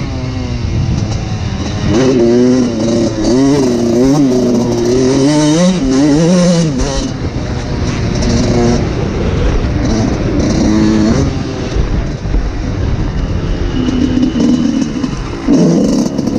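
Suzuki RM 125 two-stroke single-cylinder motocross engine revving up and down repeatedly as the bike is ridden, its pitch climbing and dropping over and over. About seven seconds in the revving eases into a rougher, noisier stretch, then it revs hard again near the end.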